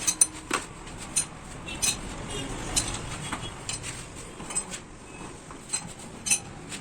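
Irregular small metallic clinks and taps of hand tools and fuel-pump parts being handled and set down.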